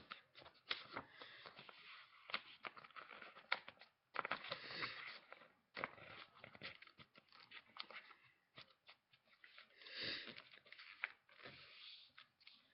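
Sheet of paper being folded and creased by hand: faint rustling and crackling with many sharp crinkles, a louder rustle about four seconds in and another about ten seconds in.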